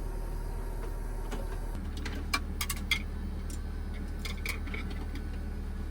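A few light clicks and taps of tableware, bunched a couple of seconds in and again near the middle, over a steady low machine hum.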